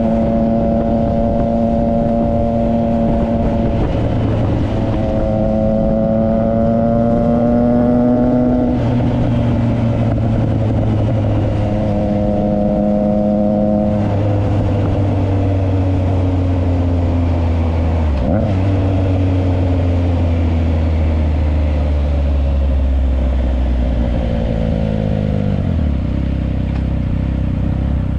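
Triumph Trident 660's inline-three engine through a Yoshimura exhaust, heard from the rider's position on the move. Its note climbs and steps down sharply several times in the first half, as on gear changes, then falls steadily as the bike slows and drops to low revs near the end, over steady wind rush.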